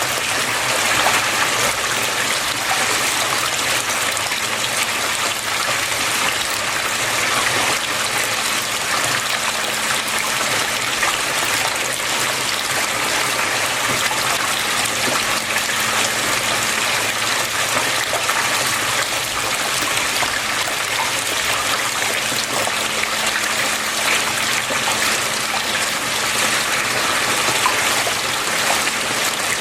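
Flowing water with an even, steady rush that holds the same level throughout.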